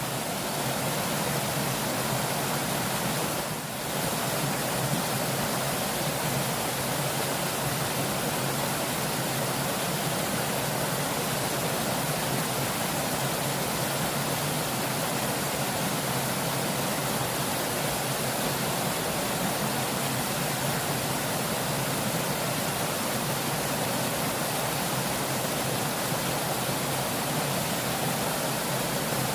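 Fast-flowing river water rushing steadily, with a brief drop in level about three and a half seconds in.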